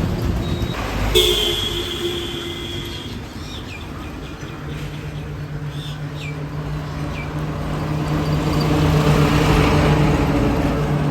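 Road traffic: vehicle engines running and passing, getting louder as one passes close near the end. About a second in, a sudden steady two-tone sound is held for about two seconds, and a few short falling chirps are heard in the middle.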